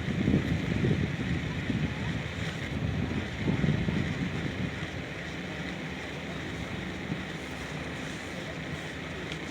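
Wind buffeting the microphone in irregular low gusts over the first four seconds, then easing into a steady outdoor hiss.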